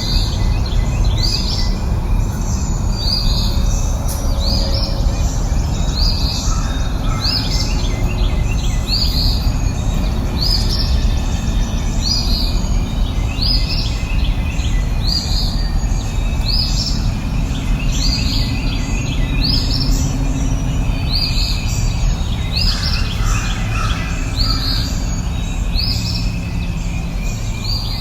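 A bird repeating one short, high, falling call about once a second, over a steady low rumble of outdoor ambience.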